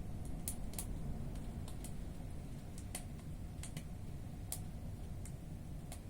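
Firewood burning in a fireplace, crackling with sharp, irregular pops a few times a second over a low steady rumble.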